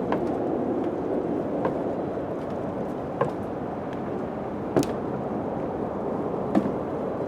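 Steady wind with sharp, short knocks about every second and a half, the loudest near the middle.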